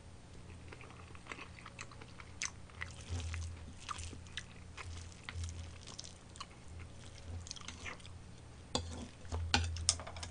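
Close-miked chewing of a mouthful of curry rice, a string of soft wet mouth smacks and small clicks, with a metal spoon now and then clinking against a ceramic bowl.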